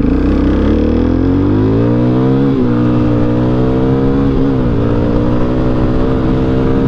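Suzuki DR-Z400SM's single-cylinder four-stroke engine pulling under acceleration. Its pitch climbs, drops sharply at an upshift about two and a half seconds in, climbs again, drops at a second upshift about two seconds later, then holds nearly steady.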